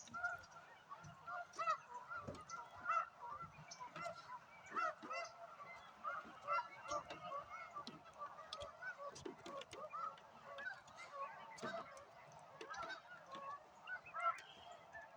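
A large flock of snow geese calling together in a dense, continuous chorus of many overlapping short honks.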